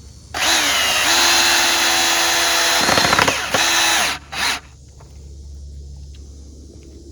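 Electric drill driving a screw into wood framing: the motor whines steadily for about three seconds, its pitch dipping near the end as the screw seats, then two short bursts of the trigger.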